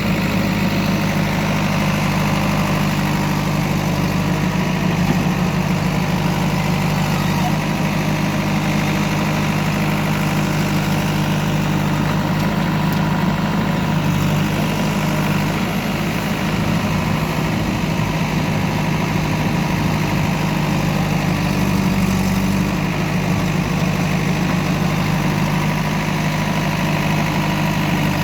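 Diesel engine of heavy machinery idling steadily, with no revving.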